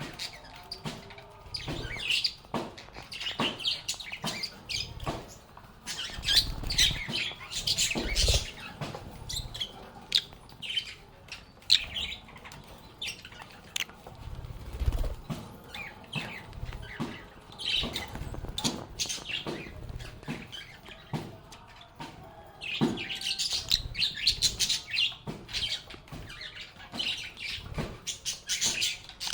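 Several lovebirds chirping in overlapping bouts of high, rapid calls, with sharp clicks and a few soft low thumps among them.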